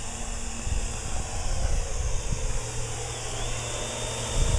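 Wind rumbling on the microphone over a steady hiss, with the faint high whine of a Parrot AR.Drone quadcopter's rotors flying well overhead. A thin high tone from the drone comes in about three seconds in.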